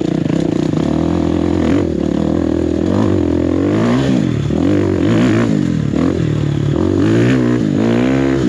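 Enduro dirt bike engine running under the rider, fairly steady at first, then revving up and down again and again through the second half as the throttle is worked over rough, rocky ground.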